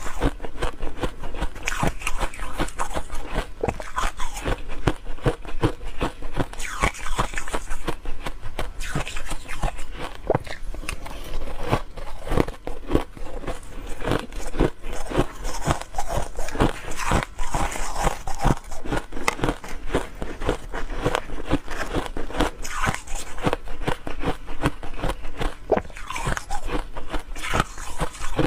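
A person biting and chewing ice, a continuous close-up run of crunching and crackling with no pauses.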